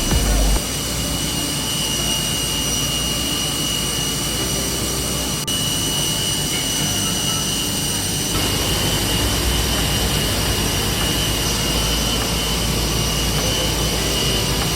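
Jet aircraft turbine running steadily on the ground: a broad rush with a steady high whine made of several tones. The sound shifts slightly about eight seconds in.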